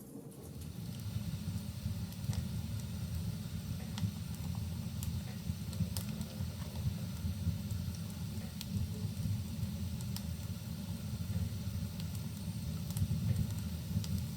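Wood fire burning in a fireplace: a steady low rumble of flames, with scattered sharp crackles and pops from the burning logs. The rumble grows louder within the first second.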